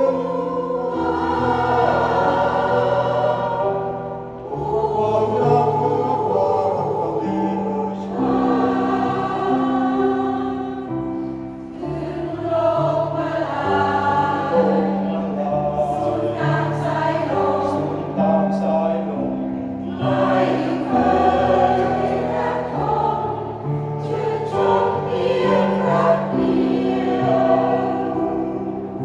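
Senior choir singing in harmony in phrases of a few seconds each, over low sustained accompaniment notes.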